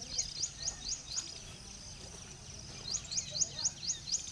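A bird calling in rapid runs of short, high, sharp chirps, about four a second: one run in the first second and another starting about three seconds in, over a low steady rumble.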